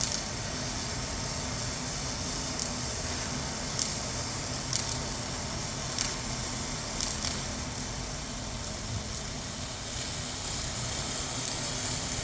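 Arc welding on the steel of a bulldozer blade's inside corner: a steady hiss with faint ticks about once a second.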